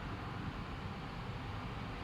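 Steady typhoon wind and rain noise, an even rushing hiss with a low rumble and no distinct claps or strikes.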